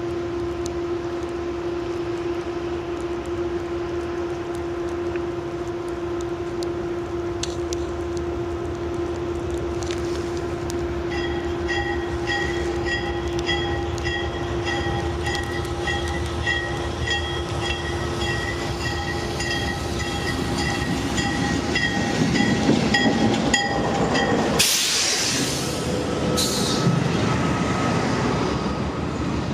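Train passing: a steady low hum for most of the clip, with a rapid repeating pitched ringing that starts about a third of the way in and stops near the end. The train noise then builds, and two short loud blasts come near the end.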